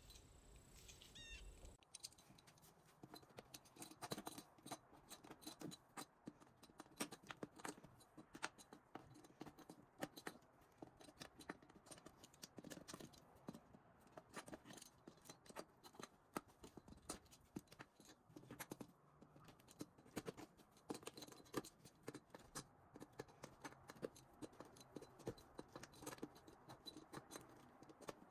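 Staple remover working upholstery staples out of a wooden chair frame: a run of irregular small metal clicks and scrapes. A few faint high chirps come just before the clicking starts.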